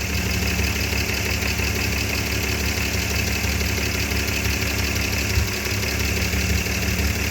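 BMW M50B20 2.0-litre straight-six idling steadily, without cutting out.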